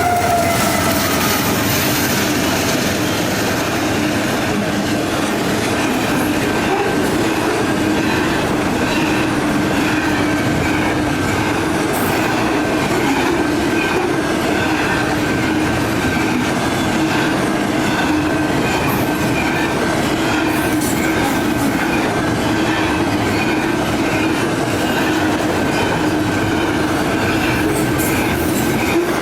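Union Pacific freight cars rolling past over the rails with a steady clatter and a held wheel tone. A falling tone dies away in the first second.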